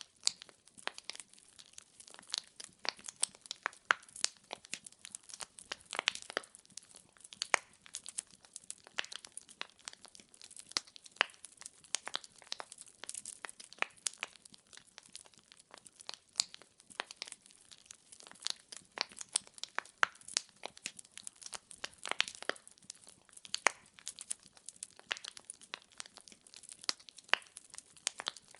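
Wood fire in a fireplace crackling: irregular sharp pops and snaps of burning logs, several a second, over a soft hiss.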